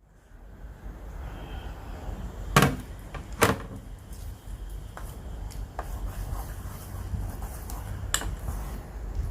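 A few sharp knocks over a low steady rumble: two loud ones close together a few seconds in, another near the end, and some fainter ticks between.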